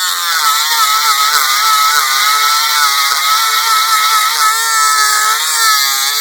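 Dspiae rechargeable electric grinder with its grinding wheel pressed against a test piece: a loud, steady grinding hiss over the small motor's whine, which wavers slightly in pitch under load. The grinding starts abruptly.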